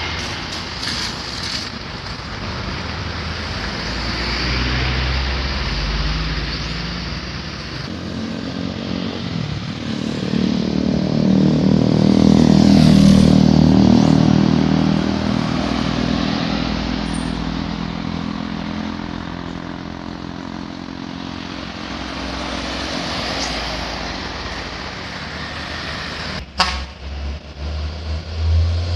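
Road traffic at an intersection: motor vehicles passing continuously, one engine passing close and loudest about halfway through before fading. A sharp click near the end.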